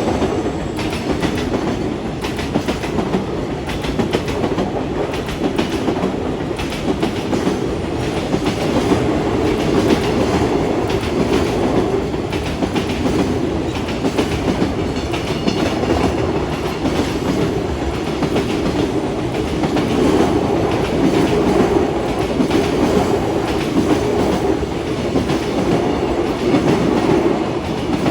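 Train passing close by for the whole stretch, its wheels clattering steadily over the rails; the long unbroken run fits one of the long container freight trains.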